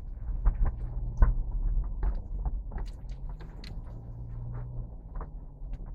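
Vehicle running, a steady low hum, with many short clicks and knocks scattered through it.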